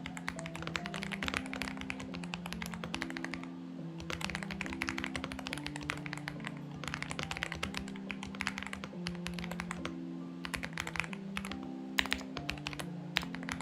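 Typing on a Xinmeng X98 mechanical keyboard: rapid runs of key clicks in bursts, with short pauses about three and a half seconds and nine seconds in. Underneath is soft background music of slow, sustained low notes.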